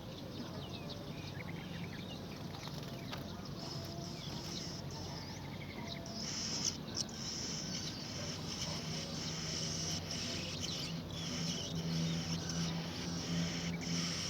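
Nestlings begging with high, continuous calls that start about six seconds in and keep going in repeated pulses, over a steady low hum.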